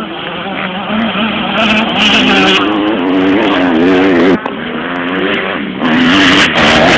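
Motocross bike engines revving hard, the pitch rising and falling as the throttle opens and closes. The sound drops off suddenly about four seconds in, then builds again.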